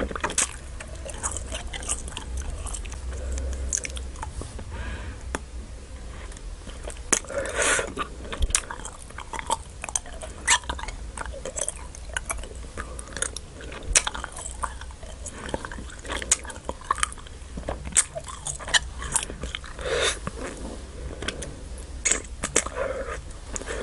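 Close-miked chewing of Nik-L-Nip wax bottle candy: wet mouth smacks and sharp irregular clicks as the chewy wax is worked between the teeth.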